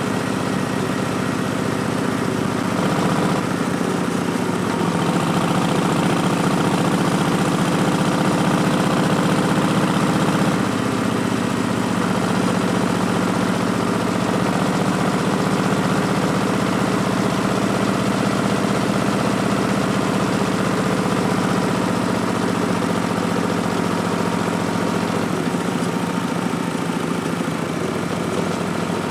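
Harley-Davidson Street Bob's Milwaukee-Eight 107 V-twin running through Vance & Hines Twin Slash slip-on mufflers. The engine note steps up about three seconds in and drops back around ten seconds, then runs fairly steady with small shifts.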